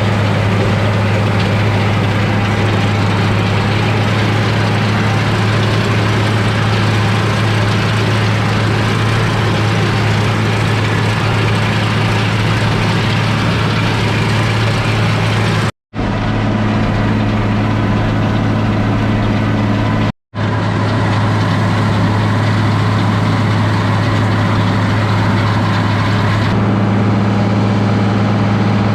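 International 1086 tractor's turbocharged six-cylinder diesel running steadily while cutting hay with a mower-conditioner, a constant low drone. The sound cuts out to silence twice for a split second near the middle.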